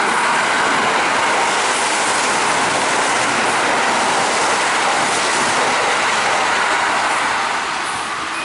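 Kintetsu 80000 series Hinotori limited express passing through the station at speed without stopping: a loud, steady rush of wheel and rail noise that eases slightly near the end as the train moves away.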